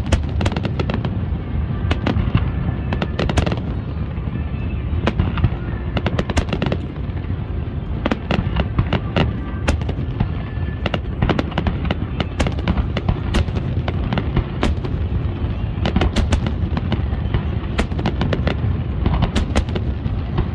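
Fireworks display: many sharp bangs and crackles, some in quick clusters, over a continuous low booming rumble.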